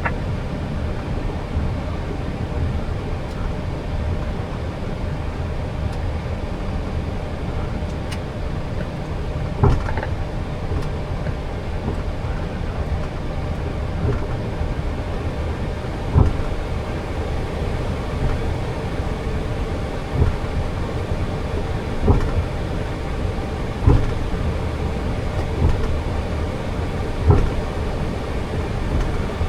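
Boeing 737 cockpit noise on the ground after landing: a steady low rumble and hiss, with about eight short thumps from about ten seconds in, roughly one every two seconds.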